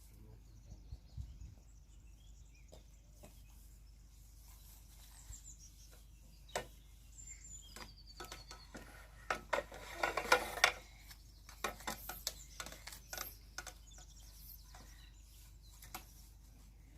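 Scattered clicks and knocks, denser about ten seconds in, with a few short high bird chirps.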